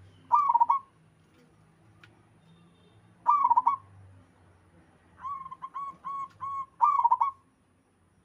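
Zebra dove cooing: three loud, wavering coos about three seconds apart. Four softer short coos lead into the last one.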